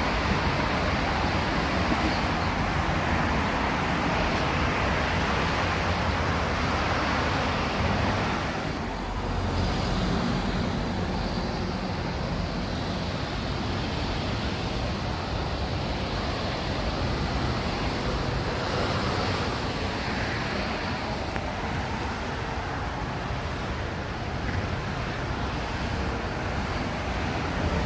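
Steady road traffic noise: the continuous hum and rush of passing vehicles, easing slightly about nine seconds in.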